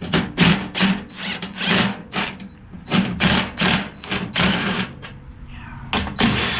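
Handheld power tool run in short repeated bursts, about two a second, over a steady low hum.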